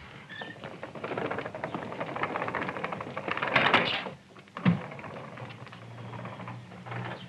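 Skateboard wheels rattling over pavement in a rapid clatter that builds and stops about four seconds in, followed by a single sharp knock and a low hum near the end.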